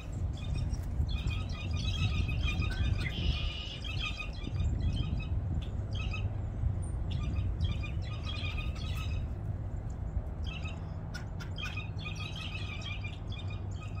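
Songbirds chirping and chattering in quick clusters of high notes, with pauses between the clusters, over a low steady hum.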